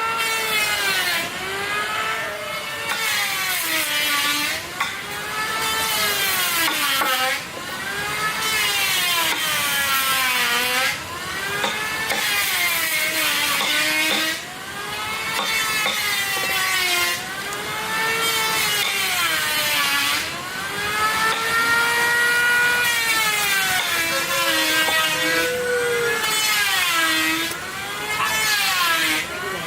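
Chainsaw cutting wood: the engine's pitch sags as the chain bites into the timber and climbs again as it frees, over and over, with short easings between cuts.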